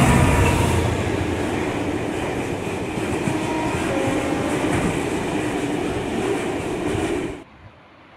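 A train running past with its wheels clattering on the rails. It cuts off abruptly about seven seconds in, leaving a much quieter background.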